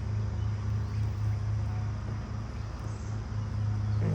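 Honeybees buzzing around an open hive: a steady, low, even drone.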